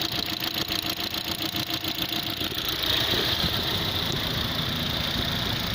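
Holden Cruze's 1.8-litre F18D4 four-cylinder petrol engine idling steadily.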